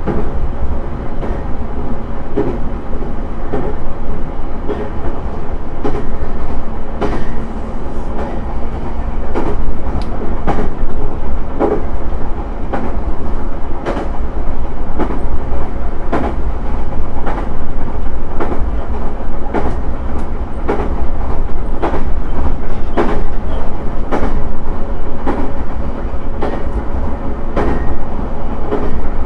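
JR East E131 series 600 electric train running at speed on the Nikko Line, heard from inside the car. Its wheels click over the rail joints about once a second, over a steady rolling rumble. A steady low hum is heard for the first nine seconds or so, then stops.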